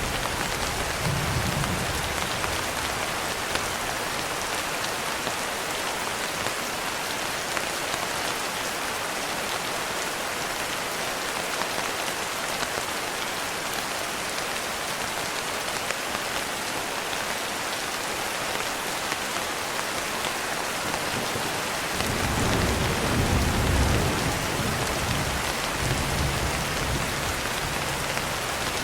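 Steady, dense rainfall, an even hiss of drops throughout. A low rumble of distant thunder swells up about three-quarters of the way through and fades out gradually, with a brief fainter rumble near the start.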